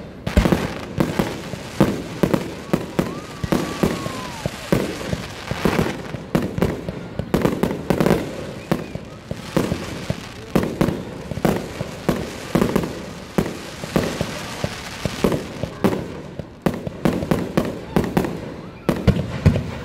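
Fireworks display: aerial shells bursting in quick succession, with several sharp bangs and crackles every second.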